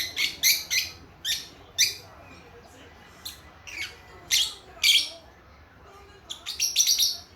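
Young lovebirds, a few months old, chirping with short, shrill calls: a quick run of calls at the start, then single calls about every half second, and another rapid burst near the end.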